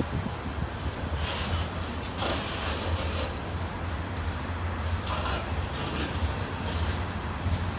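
Loaded freight train: a steady low rumble with scattered short bursts of noise on top.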